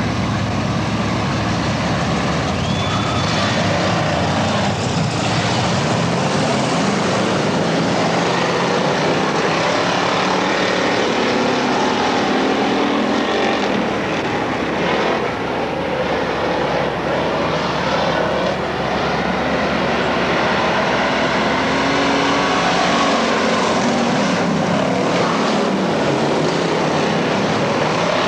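Dirt-track race car engines running together in a continuous loud drone, their pitch rising and falling as the cars rev and pass.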